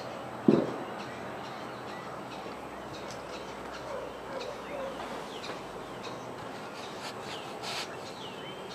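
Wild birds chirping and calling, with many short high chirps and a few low warbling notes. A brief loud low sound comes about half a second in.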